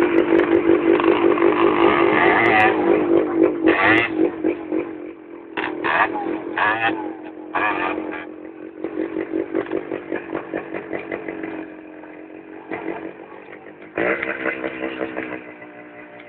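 Enduro motorcycle engine running with a steady pulsing note. It is loudest for the first few seconds, with short louder bursts between about four and eight seconds in, quieter after that, and louder again about fourteen seconds in.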